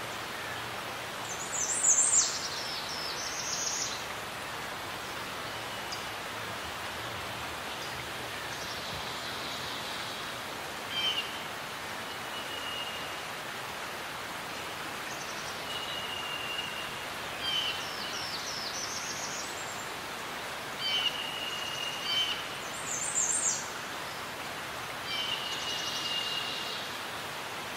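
Birdsong over a steady background hiss: high, fast trilled phrases and short level whistled notes recur every few seconds, from more than one bird.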